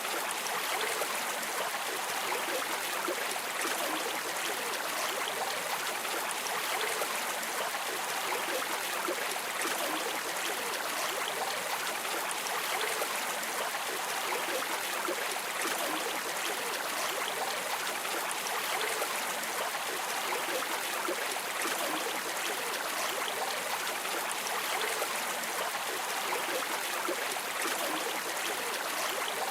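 Flowing river water streaming steadily: an even, unbroken rushing wash with no pauses or swells.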